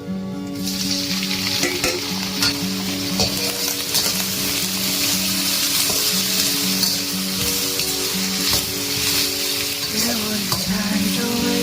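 Food sizzling in hot oil in a pan, a steady frying hiss that sets in about half a second in, over soft background music.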